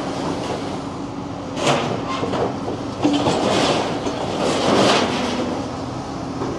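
Heavy demolition machine crunching concrete off a building, its engine running steadily underneath, with bursts of crashing, clattering rubble about a second and a half in and again from about three to five seconds in.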